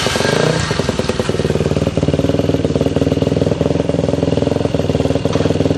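Single-cylinder Supermono race motorcycle engine idling steadily with an even firing beat, run up to check that it still runs after crash repairs.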